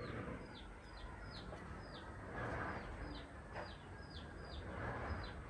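A bird calling over and over, a short falling high note about twice a second, over faint outdoor background noise.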